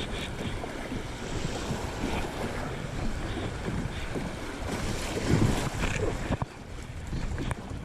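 Kayak paddling on a river, with water splashing and rushing and wind buffeting the GoPro microphone. Irregular scratching from a lifejacket rubbing against the GoPro runs through it.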